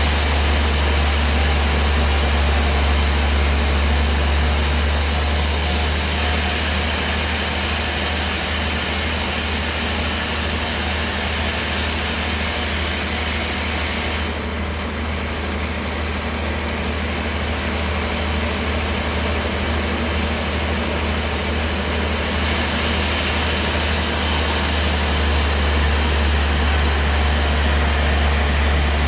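Bandsaw sawmill running and sawing wood: a strong, steady low motor hum under a broad hiss. The higher hiss drops away for several seconds midway, then comes back.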